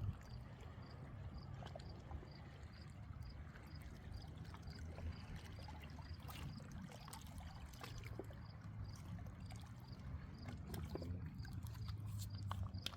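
Faint riverside ambience: a steady low rumble with scattered small clicks and light water sounds, and a faint high chirp repeating about twice a second.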